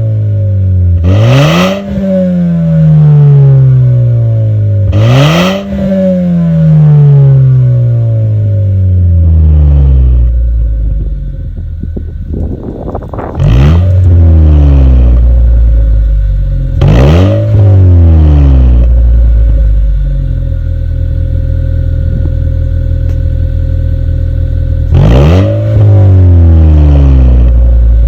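Honda Vezel engine breathing through a Mugen aftermarket muffler, free-revved about six times. Each blip is a sharp rise in pitch followed by a slow fall back to idle, with a few seconds of steady idle between the later blips.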